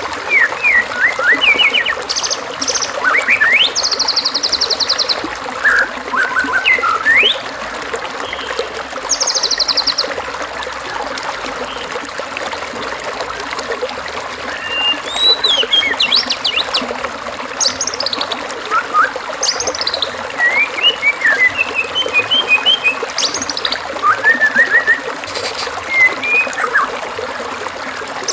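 Songbird singing a varied string of short whistled notes, quick up-and-down glides and occasional buzzy trills, over a steady background of trickling water.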